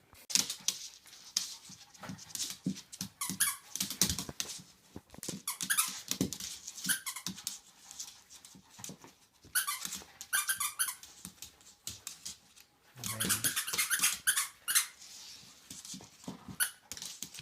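A dog whining in repeated high squeaks, mixed with light clicks and taps of wooden Jenga blocks being pushed and slid out of the tower.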